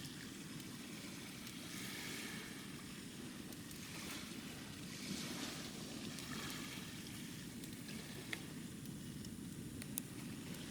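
Small waves washing onto a sandy beach, swelling and falling every couple of seconds over a steady low rush, with a few faint sharp clicks.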